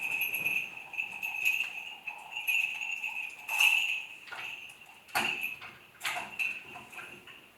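Small metal bells jingling with a sustained ringing tone, and irregular sharp clinks scattered through it.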